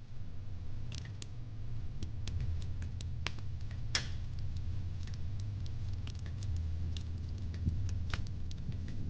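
Wood fire in a fire pit crackling: irregular sharp pops and snaps, several a second, over a steady low rumble.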